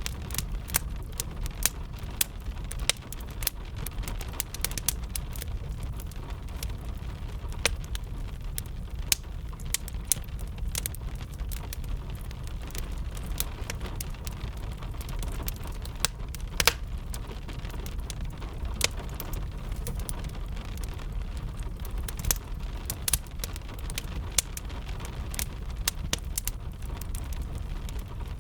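Wood fire crackling with frequent irregular sharp pops and snaps, over a steady low rumble and the soft hiss of gentle rain.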